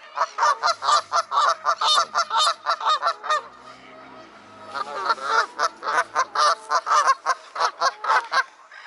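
Geese honking in a fast run of calls, about five a second, in two long bouts with a break of about a second between them.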